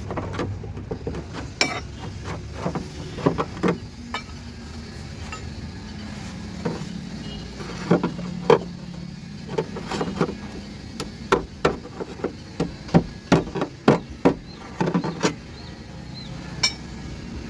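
A hammer striking a car's running board in a series of irregular sharp knocks, which come faster, about two or three a second, in the second half. A steady low hum runs underneath.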